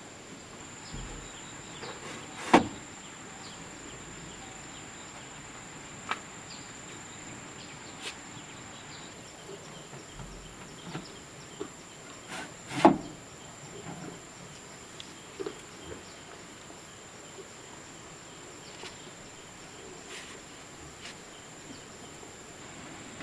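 A steady high-pitched insect buzz carries on throughout. Over it come scattered light knocks and taps, and two sharp, loud knocks about two and a half seconds in and about thirteen seconds in.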